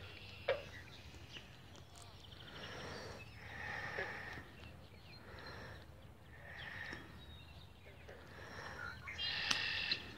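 Birds calling repeatedly around the water, short steady-pitched calls every second or two with a few higher whistles, and a sharp click about half a second in.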